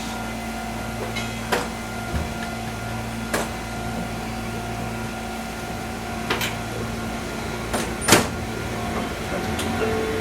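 Fukui Railway 200-series train heard on board while it stands still: a steady electrical hum with several even tones, broken by a few sharp clicks or knocks spaced a couple of seconds apart.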